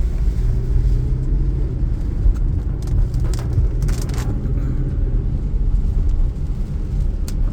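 Car cabin noise while driving: a steady low rumble of road and engine, with the engine note rising twice as the car accelerates, and a few faint clicks.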